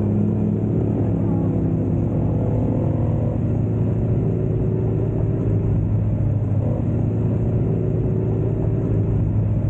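Motorcycle engine running steadily at a near-constant pitch, as when cruising.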